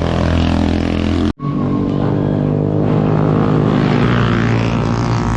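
Motorcycle engine running steadily under way, with a brief break about a second and a half in.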